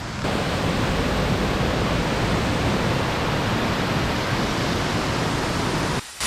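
Steady, loud rush of falling and flowing water, an even roar with no pitch, which starts abruptly just after the start and cuts off just before the end.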